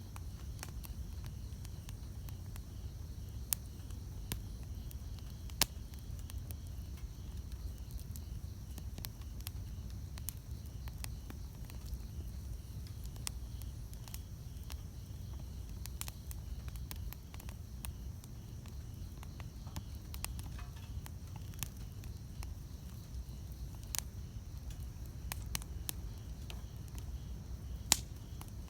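Wood campfire burning, with a low steady rumble and scattered sharp crackles and pops. The loudest pops come about three and a half and five and a half seconds in, and again near the end.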